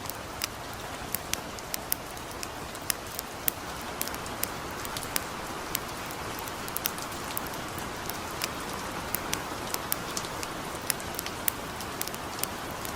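Gentle, steady rain hiss with irregular sharp crackles and pops from a burning campfire, about two a second.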